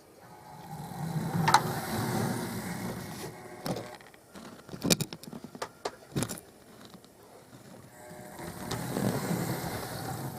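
Hornby-style model railway locomotive running along the track: the hum of its small electric motor swells up twice as it passes, with a run of sharp clicks in between.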